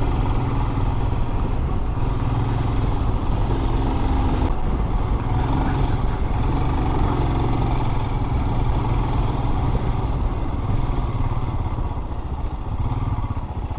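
Motorcycle engine running steadily under way, with a continuous low drone that eases off slightly near the end.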